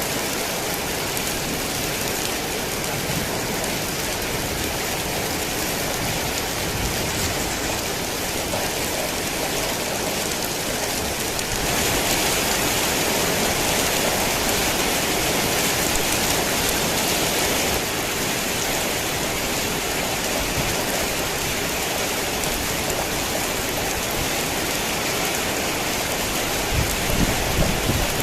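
Steady heavy rain falling, a continuous hiss of drops on surfaces. It turns suddenly louder for about six seconds in the middle, then drops back, and a low rumble starts near the end.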